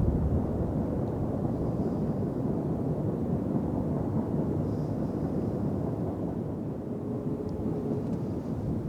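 CSX double-stack intermodal freight train passing, a steady low rumble with no break.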